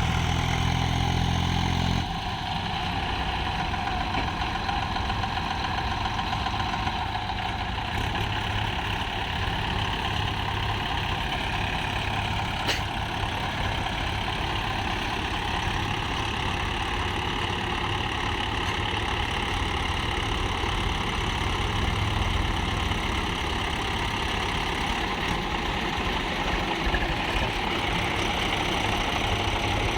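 Swaraj tractor's diesel engine running steadily; about two seconds in, its even tone gives way to a rougher, slightly quieter sound.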